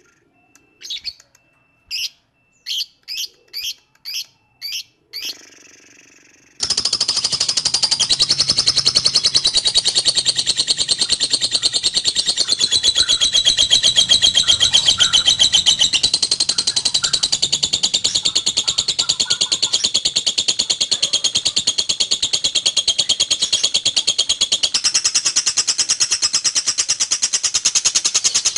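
A lovebird gives about eight sharp, separate calls. Then, about six and a half seconds in, it breaks into a loud, fast, unbroken chattering trill, the long 'ngekek' song.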